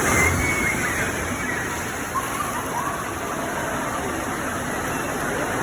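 Steady rush of water at an indoor water park, with faint distant voices and shouts in the background.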